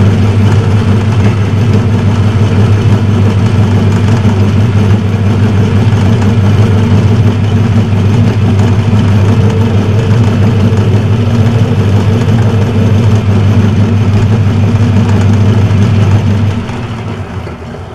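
Metal lathe running with a steady, loud motor hum, then switched off about sixteen seconds in and running down.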